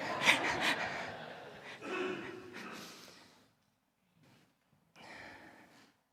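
Breathing close to a microphone: a few seconds of heavy breath and sighing, a short gap, then one more breath about five seconds in.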